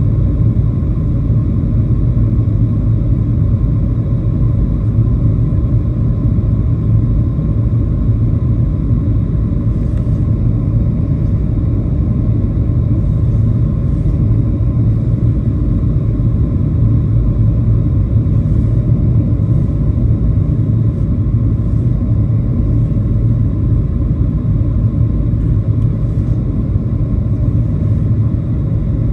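Steady low rumble of cabin noise inside a Boeing 737-700 airliner: engine and airflow noise heard from a window seat, with a few faint ticks partway through.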